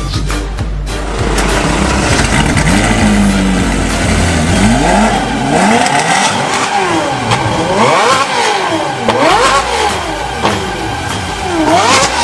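Ferrari 458's V8 engine through a titanium aftermarket exhaust, revved over and over. After a low rumble, the pitch rises and falls in quick sweeps about once a second.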